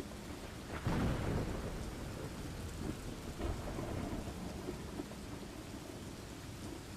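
Steady heavy rain with a low rumble of thunder swelling about a second in.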